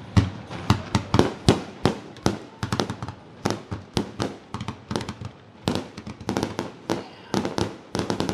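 Aerial fireworks show: a rapid barrage of sharp bangs from bursting shells, about three or four a second, some coming in tight clusters.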